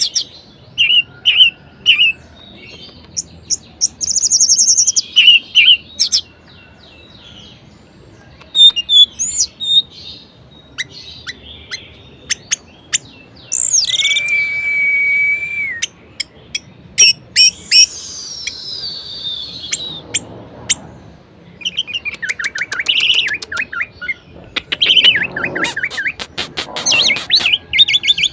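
Orange-headed thrush in full, varied song: runs of sharp chirps and whistled phrases, a held whistle about halfway through, then a long falling slurred note, and fast rattling trills near the end.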